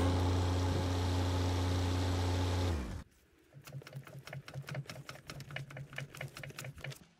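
Mini excavator engine running steadily, cutting off abruptly about three seconds in, followed by a quick run of light, regular clicks.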